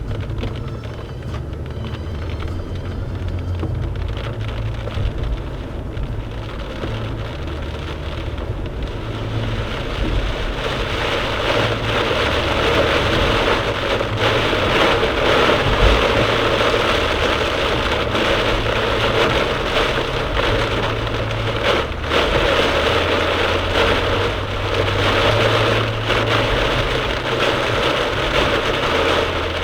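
Heavy downpour hitting a moving car's roof and windscreen, heard from inside the cabin over the low rumble of engine and tyres; the rain grows louder about ten seconds in and stays heavy.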